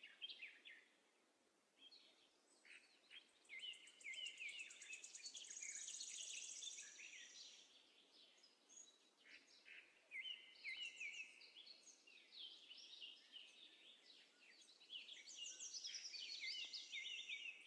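Faint birds chirping and trilling in the background, in two spells of quick, high chirps.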